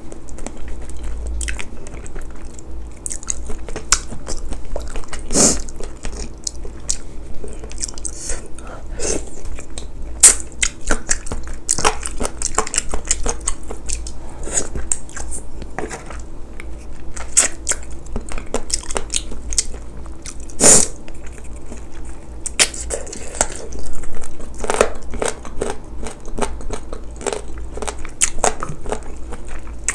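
Close-miked eating: a person chewing and biting spicy braised chicken and glass noodles. Many irregular sharp wet clicks and smacks run over a steady low hum.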